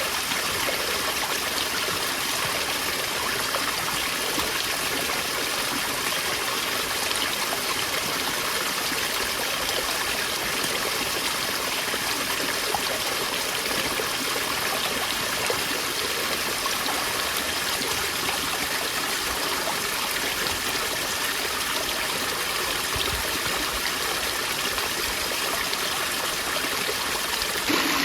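A stream of running water flowing steadily with an even rushing sound.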